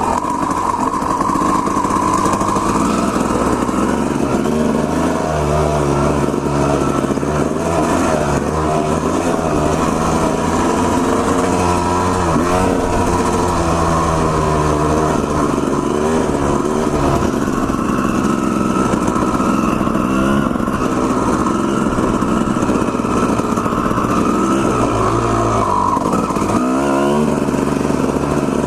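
Two-stroke Honda CR250R dirt bike engine under way, its pitch rising and falling again and again as the throttle is worked and the gears change.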